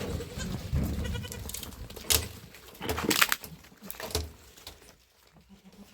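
Goats bleating, with a couple of sharp knocks about two and three seconds in.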